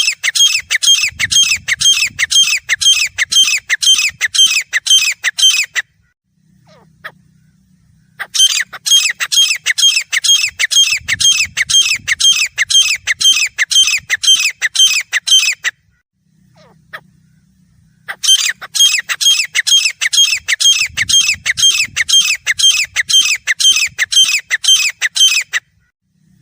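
Grey francolin calling: rapid, loud, harsh notes repeated in a steady rhythm. They come in three long runs of about seven seconds each, separated by pauses of about two seconds.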